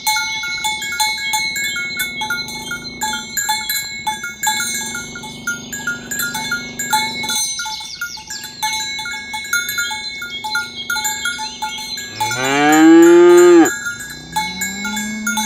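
Small bells clinking in a steady, repeating rhythm among a herd of cattle. About twelve seconds in, a cow gives one loud moo that rises and then falls in pitch, and another, lower moo begins near the end.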